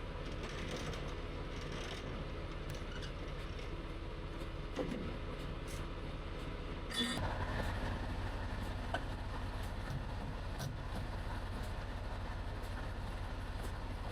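Semi-truck running, a steady low rumble with light rattles. About seven seconds in there is a clunk, and the rumble is a little louder after it.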